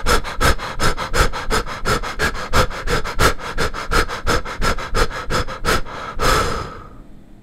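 A man breathing heavily and fast, quick short breaths in and out at about five a second. About six seconds in the panting ends in one longer breath out, which fades away.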